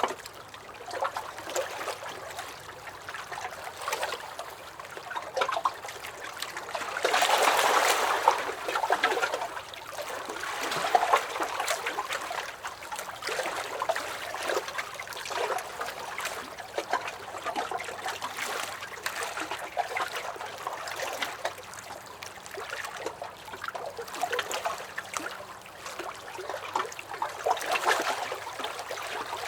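Small lake waves lapping and sloshing against a dock, in irregular swells with small splashes, louder for a couple of seconds about a third of the way in. A faint low hum runs underneath.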